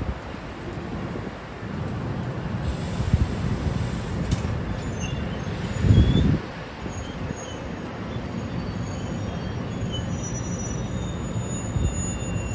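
A train moving through the station over a steady rumble, with thin high-pitched wheel squeals at several pitches from about five seconds in. A short burst of hiss comes about three seconds in, and a low thump about six seconds in.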